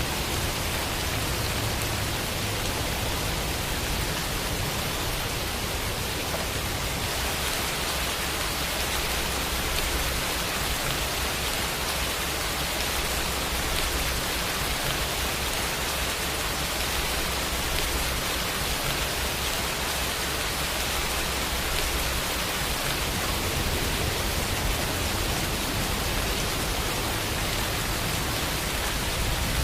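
Steady rainfall: a dense, even hiss of countless drops with no single sound standing out, growing slightly brighter about seven seconds in.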